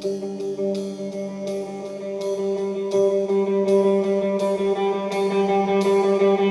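Live rock band playing: electric guitar holding sustained, ringing chords over a sharp tick about twice a second, slowly getting louder.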